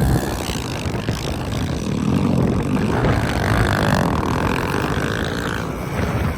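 Pit bike engines revving as the bikes are ridden around a dirt track.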